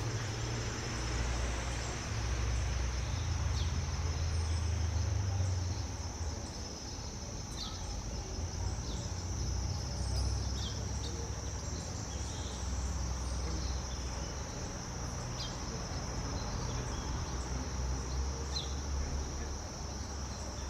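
Steady high-pitched drone of insects such as crickets or cicadas, with short, scattered chirps from small birds at a feeder over a low rumble.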